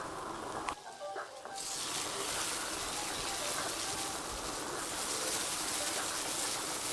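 Food sizzling and frying in a hot pan, a steady crackling hiss that drops out briefly about a second in and comes back louder.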